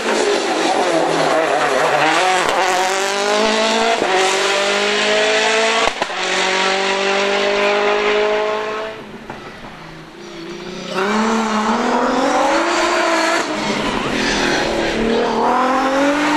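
Rally car engine at full throttle, its note climbing and stepping down with a sharp crack at each upshift, about every two seconds. Around the middle it drops away briefly, then climbs again.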